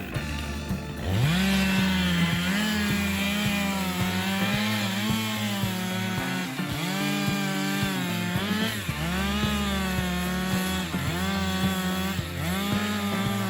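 Two-stroke chainsaw revving up from idle about a second in, then running at full throttle, its pitch sagging and recovering several times as it works through a cut.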